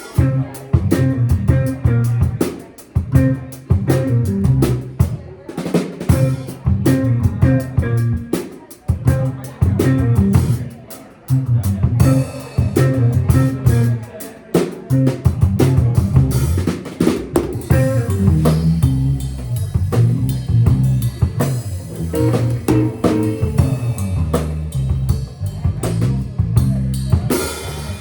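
Drum kit playing a funk groove, with snare and bass drum hits, alongside the band's guitar and a held bass line.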